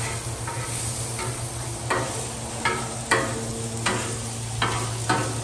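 Diced onions sizzling in a butter-and-oil mixture on a flat-top griddle, while a metal spatula scrapes and taps across the steel surface about once every second, turning them. A steady low hum runs underneath.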